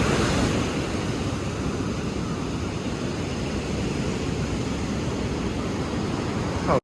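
Ocean surf: a steady wash of waves, a little louder in the first second, cutting off suddenly at the very end.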